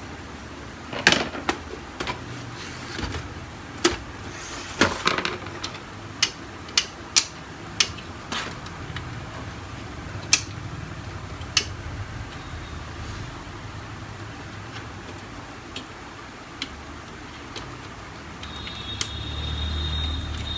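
Sharp plastic clicks and knocks as a laser printer's covers and parts are handled and unclipped during disassembly, about a dozen scattered through the first part, over a steady low hum. A low rumble swells near the end.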